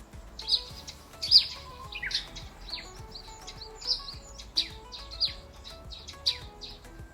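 Birds chirping in short, sharp calls about every half second to second, the loudest about a second and a half in, over soft background music.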